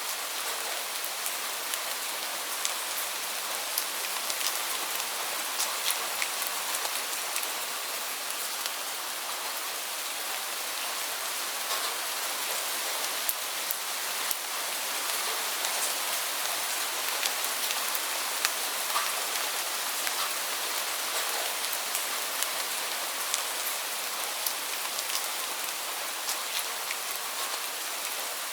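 Heavy rain falling steadily, a dense hiss with frequent sharp ticks of individual drops hitting a surface.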